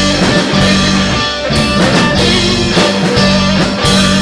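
Live rock band playing an instrumental passage between vocal lines: electric guitar and bass over a steady drum-kit beat.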